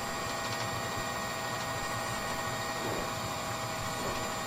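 A steady mechanical hum with several high, unchanging whine tones over an even noise, holding level throughout.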